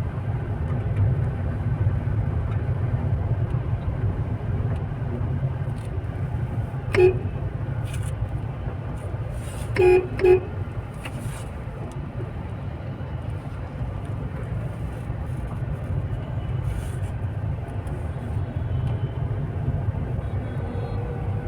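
Steady road rumble inside a moving car's cabin, with a car horn sounding one short honk about seven seconds in and two quick honks about ten seconds in.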